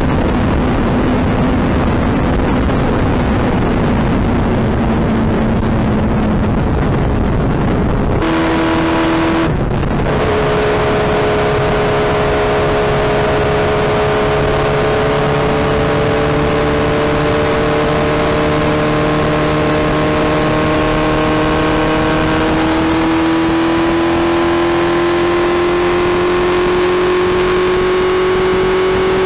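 Suzuki Hayabusa inline-four engine and exhaust under way at road speed. For the first eight seconds it is a steady rushing noise with a faint engine note. After a brief break the engine note comes through clearly, holding steady and slowly rising in pitch as the bike gains speed.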